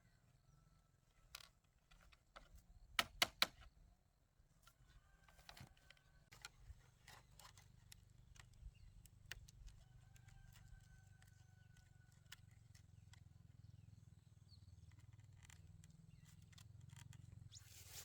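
Quiet scattered clicks and knocks, with three sharp knocks in quick succession about three seconds in, over a low hum.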